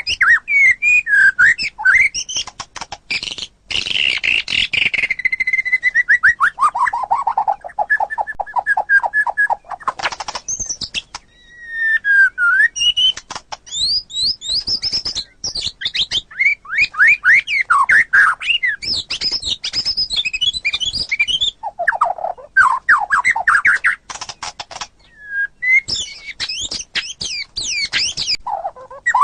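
White-rumped shama (murai batu) singing a long, varied song of whistled phrases, fast trills and quick repeated notes, with a long run of rapid notes sliding down in pitch a few seconds in and sharp clicking stretches between phrases.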